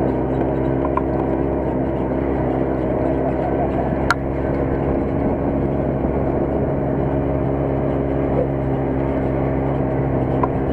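Off-road buggy engine running at a steady speed, heard from aboard during a ride, with a sharp click about four seconds in.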